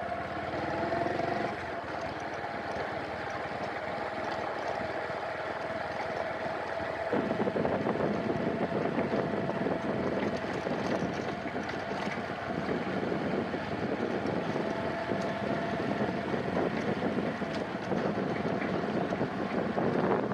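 Motorcycle engine running while riding, a steady drone under wind rushing over the microphone. The wind noise grows heavier about seven seconds in.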